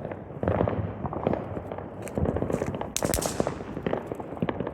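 Small fireworks popping and crackling in quick, irregular cracks, with one louder, sharper bang about three seconds in.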